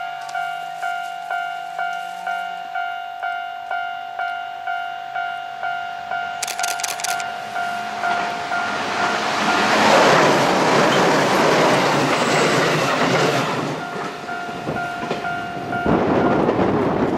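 Railway level-crossing bell dinging about twice a second while a JR West 221 series electric train comes round the curve and passes at speed, its wheels and running gear rising to a loud rushing rumble with rail clatter. The bell stops abruptly about sixteen seconds in as the train clears.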